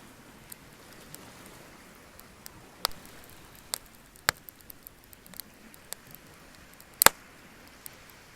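Wood bonfire crackling: scattered sharp pops and ticks over a faint hiss, with a louder double pop about seven seconds in.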